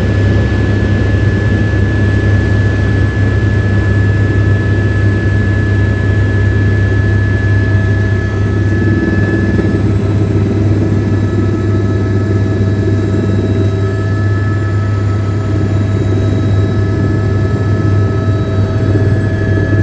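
Helicopter running steadily in flight: a loud, constant low drone with thin steady turbine whine tones above it. The highest whine shifts in pitch about halfway through.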